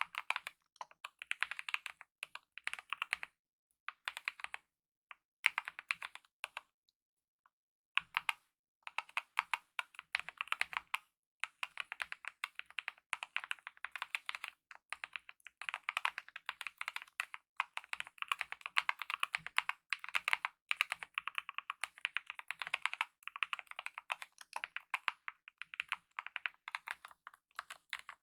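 Typing on a Kemove mechanical keyboard with lubed optical red linear switches and DSA-profile keycaps: rapid runs of keystrokes in bursts, with a pause of about two seconds near the start.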